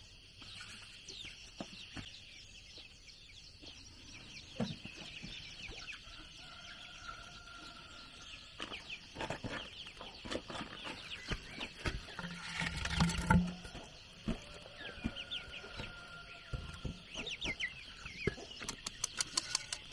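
Chickens clucking, with high chirping calls throughout and scattered sharp knocks and taps; a louder burst comes about two-thirds through, and a quick run of clicks comes near the end.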